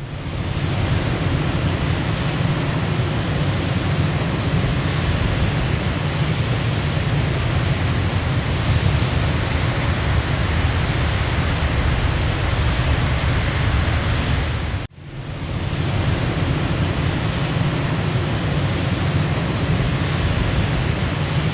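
Waterfall's steady rushing water, even and unbroken. About 15 seconds in it cuts out for a moment and fades back up.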